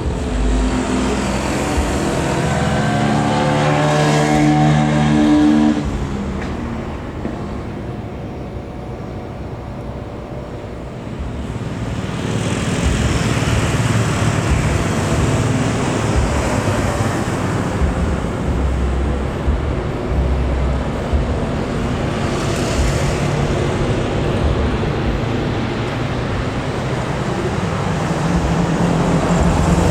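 Engine noise: for the first six seconds an engine whose pitch shifts in steps, then a quieter stretch, and from about twelve seconds in a steady roar that stays loud.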